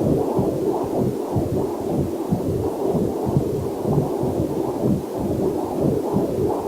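Heartbeat picked up by a fetal Doppler heart monitor: rapid, steady, muffled pulsing beats, roughly two to three a second.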